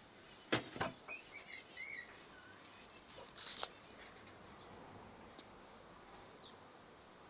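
Aviary birds chirping: a run of short pitched chirps a second or so in, then a few brief falling chirps spread through the rest. Two sharp knocks come about half a second in, and a short scratchy burst a little after three seconds.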